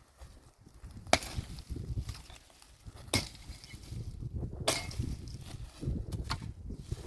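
Sharp chopping blows of a tool on wood: three loud strikes about a second and a half apart, and a lighter one near the end, over a low outdoor rumble.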